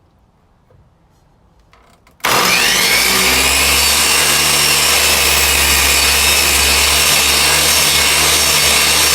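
Electric miter saw switched on about two seconds in, its motor then running steadily at full speed with a high whine as the blade is eased slowly through a wooden block.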